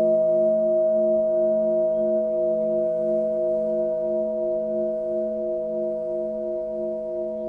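Singing bowl ringing on and slowly fading, its lower tones pulsing in a steady wavering beat under a clear main tone.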